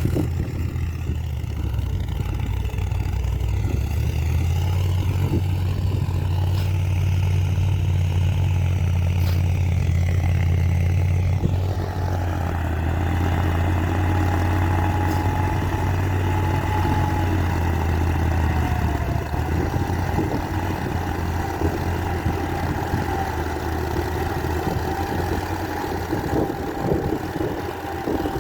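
New Holland 3630 TX Super tractor's diesel engine running steadily. About twelve seconds in, a higher whine and more hiss join the engine sound.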